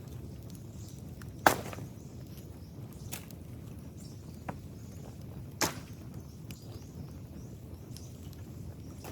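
Sharp cracks of old dry bamboo, four in all, the loudest about a second and a half in and another near the middle, over a steady low background noise.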